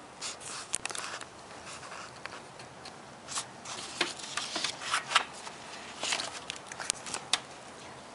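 Paper rustling with scattered light clicks and crinkles, as the pages of a handmade report are handled and turned.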